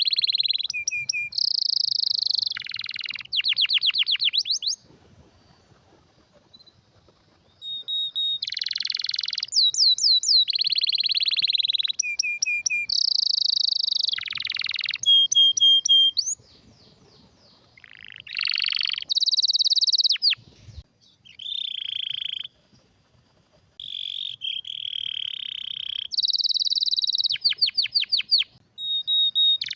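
A canary singing in phrases: high rolling trills and fast runs of repeated sweeping notes, broken by silent pauses of a couple of seconds, the longest near the start and again about halfway.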